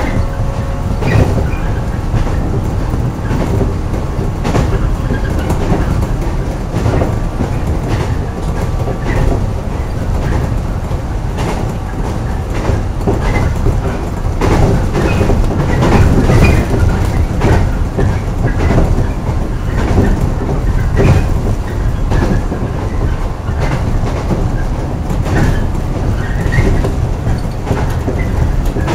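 JR West 115 series electric train, motor car KuMoHa 115-1659, running along the line as heard from the front cab: steady rumble and track noise with irregular clacks as the wheels pass rail joints and points, and the traction motors' drone.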